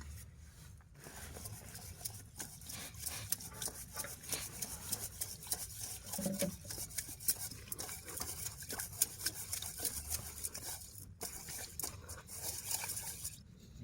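A utensil scraping and stirring in a cooking pan, in a quick run of small scrapes and clicks over a low steady rumble.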